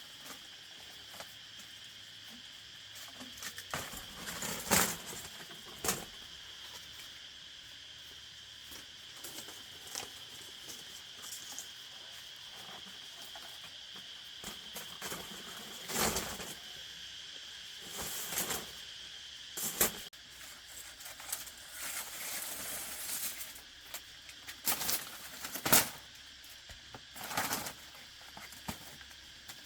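Scattered rustles and sharp light knocks, irregularly spaced, over a steady high-pitched drone.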